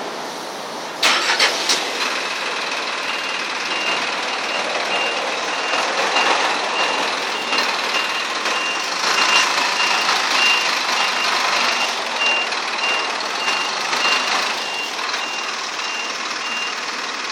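A vehicle's reversing alarm beeping in a steady series of short high beeps, about two a second, over traffic and street noise. A few sharp knocks come about a second in.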